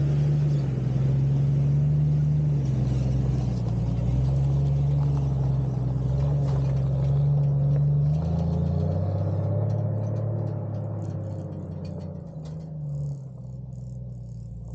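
Jeep Cherokee XJ engine running as the vehicle drives the trail: a steady low hum that shifts in pitch about eight seconds in and gets quieter near the end.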